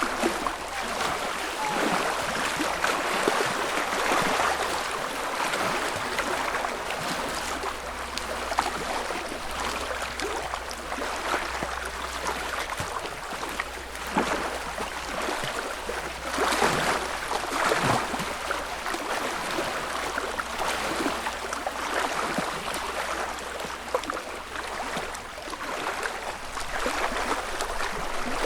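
Small lake waves lapping on the shore: a continuous wash of little splashes that swells now and then as slightly bigger ripples come in.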